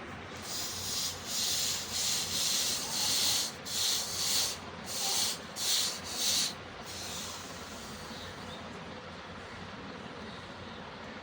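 Hand abrasion on steel: a file or sandpaper rubbed back and forth over a forged leaf-spring axe head in about ten rhythmic strokes, roughly one and a half a second, stopping about two-thirds of the way through.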